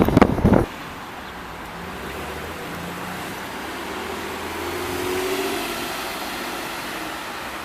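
A car going by on a road: a loud crackling burst right at the start, then steady road noise with an engine note that swells to its loudest about five seconds in and fades again.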